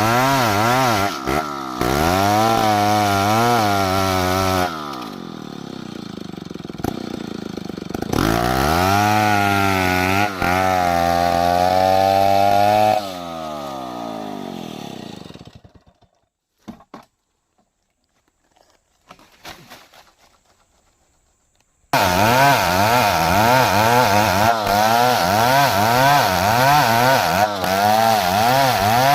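Two-stroke chainsaw cutting wood under load, its pitch wavering as it bites. It drops to a lower, steadier note about five seconds in, comes back up to cut again, then winds down and stops about fifteen seconds in. After a few faint clicks in the quiet, it is back cutting at full throttle abruptly about twenty-two seconds in.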